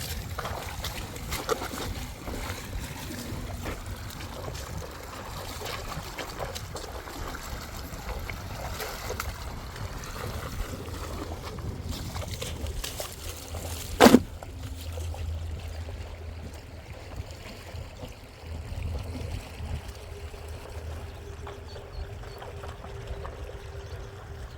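Water trickling steadily, with one sharp knock about halfway through.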